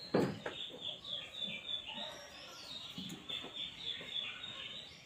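Birds chirping in quick, repeated short high notes, with a brief knock near the start.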